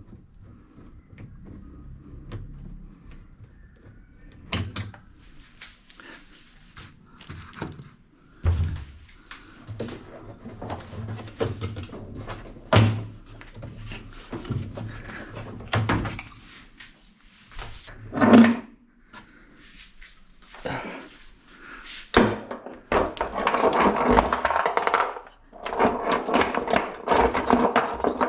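Plastic parts of a Sanyo SW-13UF8 top-loading washing machine being handled and pried during disassembly of the tub's top cover: irregular knocks and clicks with a few sharper thunks. Near the end comes a denser stretch of rattling and scraping.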